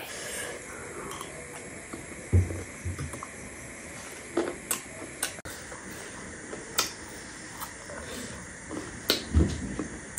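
Close-miked chewing of a mouthful of chatpate, a spicy puffed-rice mix: scattered small crisp clicks and mouth sounds, with two low thuds, one about two seconds in and one near the end, over a faint steady hiss.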